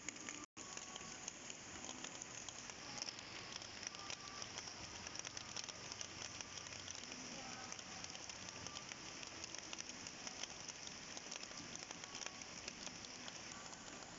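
Steady rain falling on a surface, a dense pattering of many individual drops, cut off by a brief gap about half a second in.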